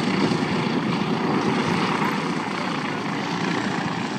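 Jet engine noise from the Red Arrows' BAE Systems Hawk T1 trainers flying overhead, a steady, even rush that eases off slightly toward the end.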